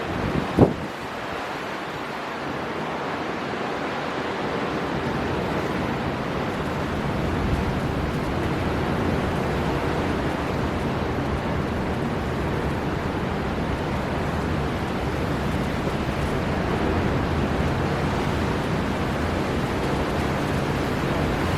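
Storm wind blowing over the sea with surf breaking, a steady, even noise that swells slightly over the first few seconds. A brief low thump sounds just after the start.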